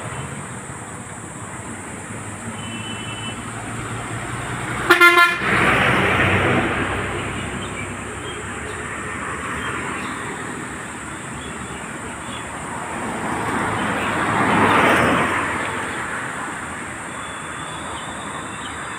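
Road traffic, with a vehicle horn giving a short honk about five seconds in. Passing vehicles swell and fade around six and fifteen seconds.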